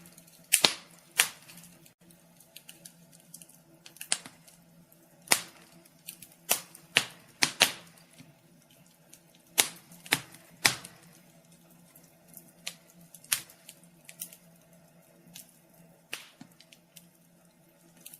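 Wood fire crackling in a fireplace: irregular sharp pops and snaps, the loudest clustered near the start, around five to eight seconds in and around ten seconds in, over a faint steady hum.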